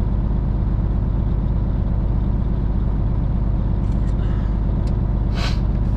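Cummins ISM inline-six diesel in a Freightliner FLD semi idling with a steady low drone.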